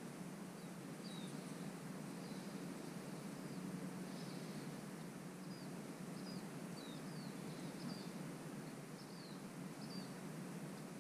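A small bird chirping, short falling high chirps repeated irregularly about once a second, over a steady low background rumble.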